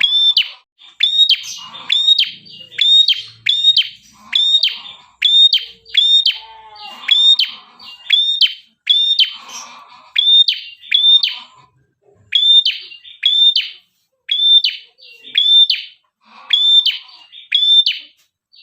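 Red-headed prenjak, a small prinia-type bird, singing a fast run of sharp, high double notes, about two a second, broken by a couple of short pauses.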